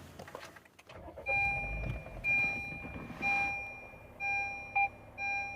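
An in-car electronic chime beeping about once a second, each beep a short two-pitched tone, as the car's electronics power up.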